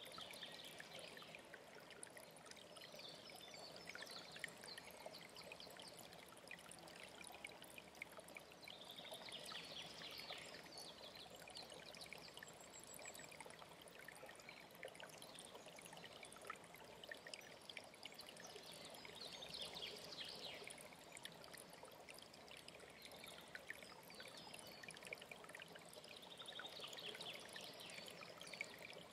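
A faint mountain stream running steadily, with a songbird singing short chirping phrases every several seconds.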